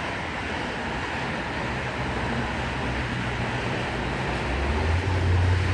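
Electric V-set intercity train standing just past the platform after overshooting it: a steady running hum with a low drone that grows louder about four and a half seconds in.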